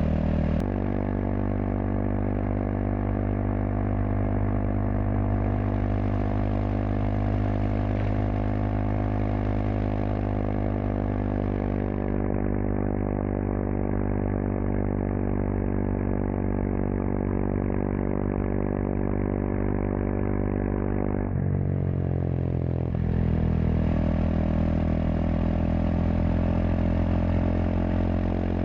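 Kawasaki KLX230SM's single-cylinder four-stroke engine running through a K-Factory FRC slip-on silencer, held at a steady engine speed under way. About 21 seconds in, the note dips briefly and then climbs slowly again.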